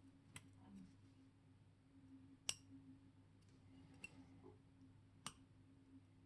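Near silence with four light, sharp clicks of small tools against small metal watch parts, the loudest about two and a half seconds in, over a faint steady hum.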